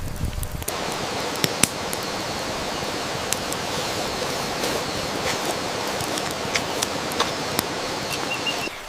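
Steady rushing of flowing water, such as a stream, with scattered sharp clicks over it; it starts just under a second in and stops just before the end.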